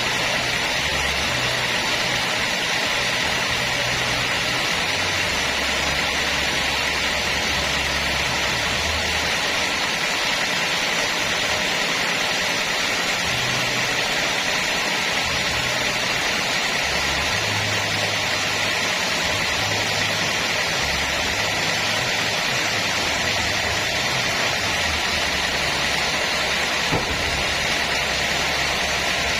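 Homemade bandsaw sawmill running, a steady mechanical noise. A low hum underneath shifts between two pitches several times.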